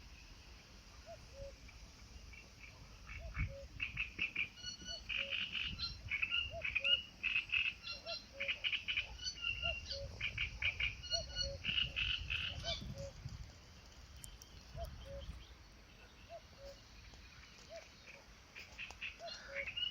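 Frogs calling: a short low note repeats about once a second, and bursts of rapid, higher rattling croaks come in from about four seconds in for several seconds and again near the end, over a low rumble.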